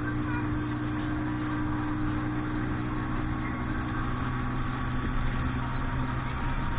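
Motorboat engine running at a steady speed, a continuous low hum.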